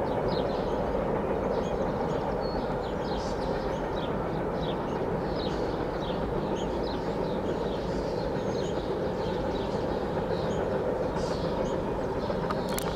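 A CSX freight train's cars rolling away on the rails, making a steady rolling noise of wheels on track. Many short, high bird chirps sound over it.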